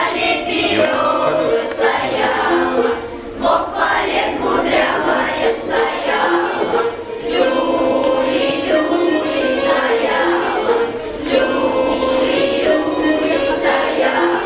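A children's choir singing a song in unison with musical accompaniment.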